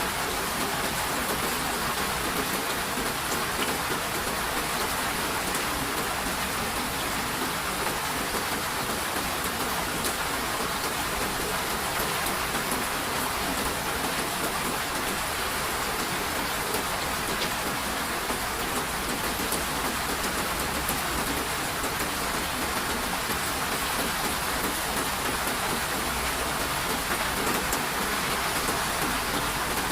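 Steady rain falling, an even, dense hiss with faint patter of drops.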